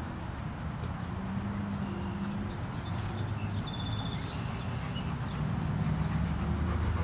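Small birds chirping and twittering in short calls through the middle of the stretch, over a steady low outdoor rumble.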